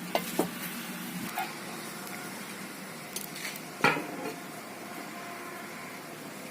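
A few sharp metal clinks and knocks from handling cooking utensils, the loudest about four seconds in, over a steady background hiss.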